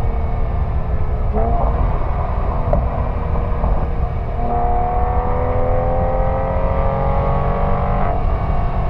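Porsche 997 911's flat-six engine through its sport exhaust while driving, heard at a microphone mounted by the exhaust outlet, over a heavy low rumble of wind and road. The engine note jumps in pitch about a second and a half in and again around four and a half seconds, then climbs slowly, changing again near the end.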